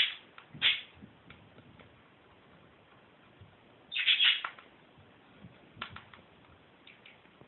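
Budgerigar chirping: two short calls near the start and a longer chattering call about four seconds in, with faint clicks in between.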